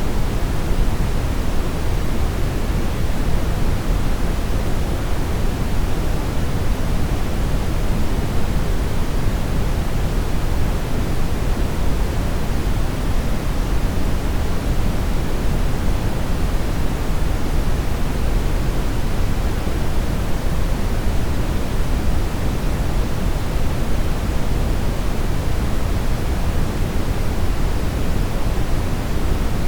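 Television static: the steady, loud hiss of a TV tuned to no signal, even and unchanging, weighted toward the low end.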